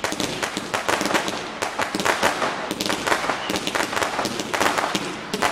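Consumer firework cake going off: a rapid, irregular crackle of many sharp bangs and pops, several a second with no pause.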